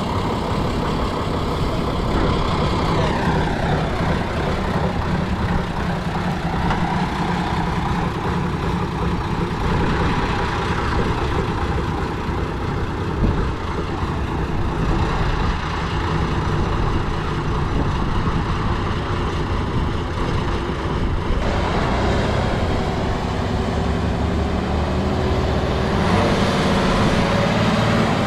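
Heavy off-road trial truck's diesel engine running under load, its pitch dropping about three seconds in and rising again near the end.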